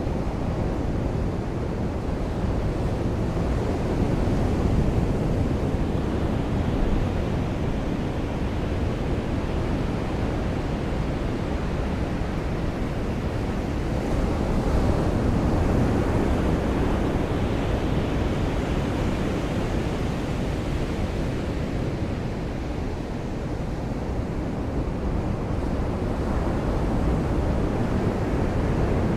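Ocean surf washing onto a beach: a steady deep rush that swells a few times as waves come in, with rain mixed in.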